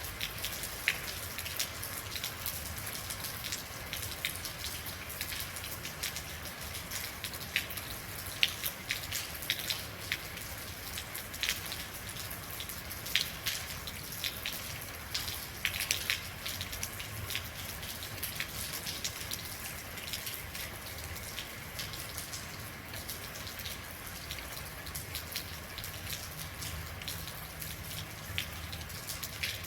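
Steady rain falling, with a constant hiss and many individual drops striking and splashing at irregular moments, some sharper and louder than the rest.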